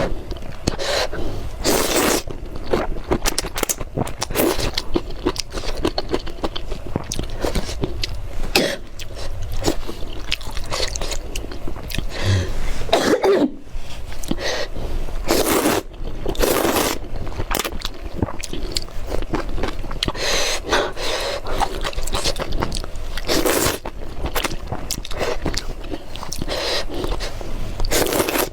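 Close-miked eating sounds of spicy noodles: chewing, wet mouth clicks and several short noisy bursts throughout.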